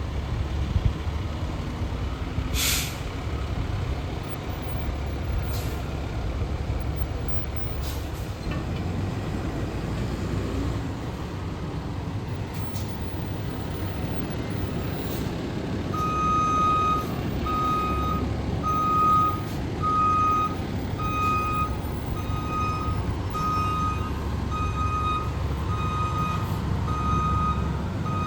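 Fire truck's diesel engine running slowly, with a short sharp air-brake hiss about three seconds in. About halfway through its reversing beeper starts, beeping a little faster than once a second, as the truck backs up.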